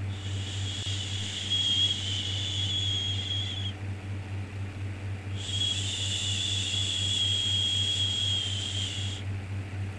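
Long shushing 'shhh' sounds for soothing a baby: one runs for the first three and a half seconds, then after a pause of about a second and a half a second one lasts about four seconds. A steady low hum runs underneath.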